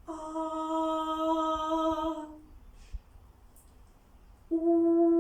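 A woman's voice singing drawn-out vowel sounds, each held at one steady pitch for about two seconds. The first fills roughly the first half, and the second starts near the end after a pause. The vowels are sung out to show that they are vowels, sounds that can be sung.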